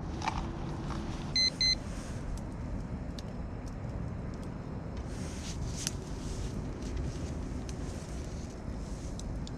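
Two short, high electronic beeps in quick succession about a second and a half in, over a steady low rumble with a few scattered faint clicks.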